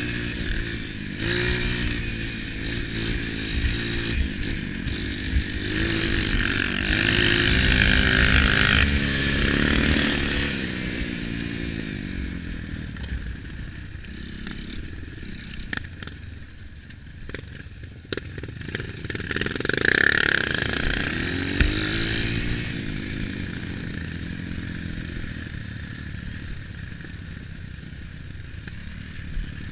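Off-road trail motorcycle engines revving, their pitch rising and falling. They are loudest about eight seconds in and again about twenty seconds in, with scattered clattering clicks in between.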